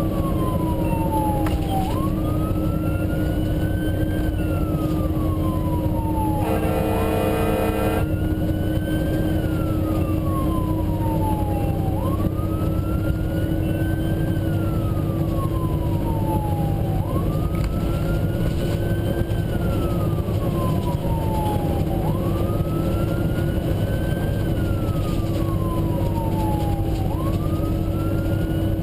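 Fire engine's siren wailing, its pitch climbing quickly and then falling slowly, about once every five seconds, over the steady drone of the truck's engine. About seven seconds in, a horn sounds one blast lasting over a second.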